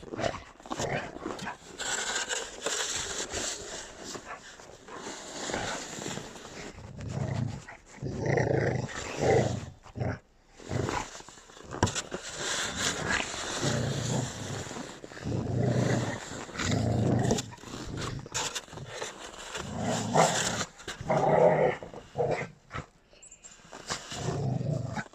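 Puppies growling in repeated bursts as they scuffle with each other.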